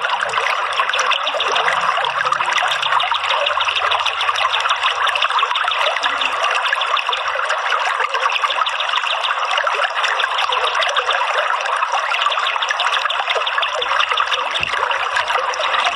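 Running water trickling and splashing steadily, used as a bird-therapy water sound.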